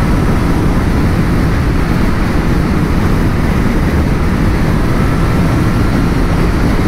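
Wind rushing over a motorcycle rider's helmet microphone at riding speed, a loud steady rumble, with road and engine noise of the naked bike under it.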